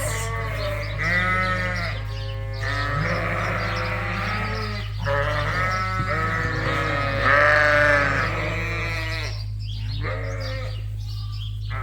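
Sheep in a barn bleating, many overlapping calls one after another, over a steady low hum.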